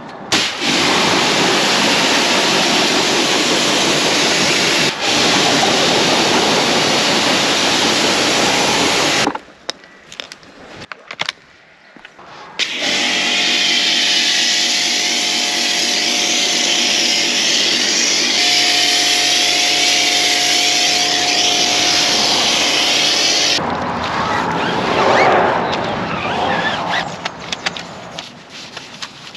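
Pressure washer rinsing iron-remover product off the wheels: a steady hiss of the water jet that stops about nine seconds in and starts again a few seconds later, now with the washer's motor humming under it, and cuts off near the end.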